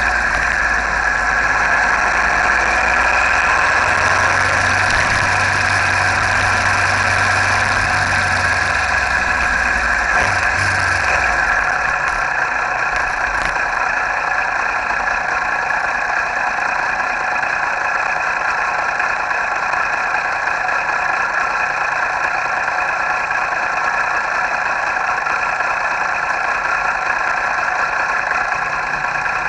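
Motorcycle engine running steadily on the move. A deep low rumble under it falls away about eleven seconds in.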